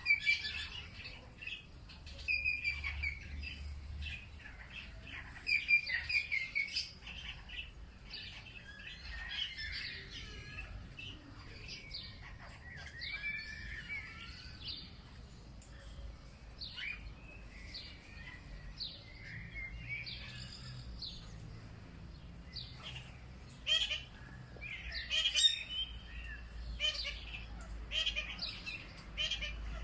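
Several small birds chirping and singing at once, short chirps and warbling phrases overlapping continuously. There are louder bursts of song a few seconds in and again near the end.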